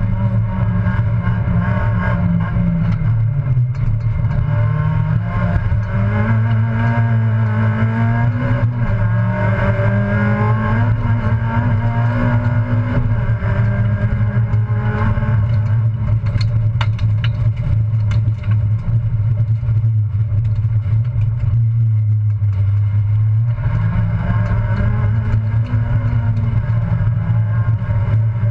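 Citroën Saxo race car's engine heard from inside the cabin under hard driving, its revs rising and falling with gear changes and corners over a steady low drone. A few sharp clicks come through about two-thirds of the way in.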